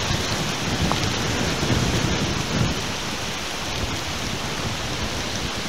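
Steady rain falling with strong wind of about 30–40 mph tossing the trees, heard as an even hiss with no distinct thunderclap.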